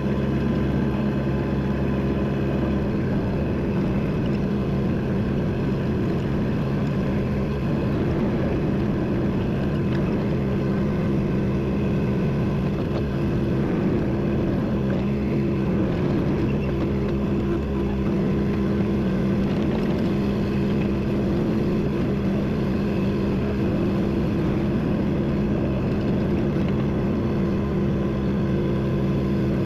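A vehicle engine running steadily under load, its note shifting about three seconds in.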